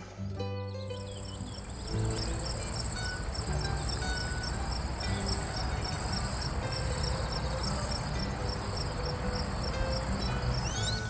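An insect trilling steadily at a very high pitch, starting about half a second in, with a quicker row of short, evenly spaced chirps just below it.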